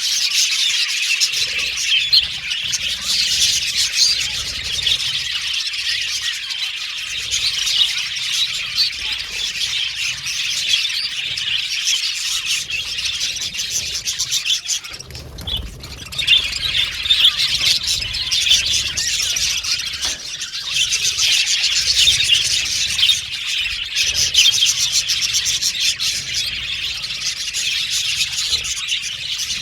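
A flock of budgerigars chattering and chirping in dense, overlapping calls, with a brief lull about halfway through.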